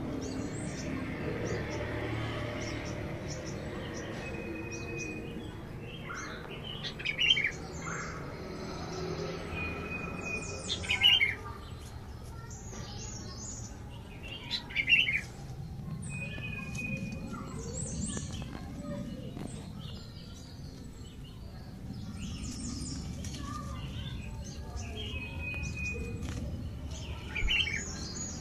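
A bird calling in short bursts of chirps, four times, each burst led a moment before by a brief thin whistled note, over a low steady background hum.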